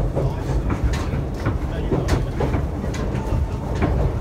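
Cabin noise of an Ise Railway diesel railcar running at speed: a steady low rumble from the running gear, with frequent irregular clicks and knocks from the wheels on the track.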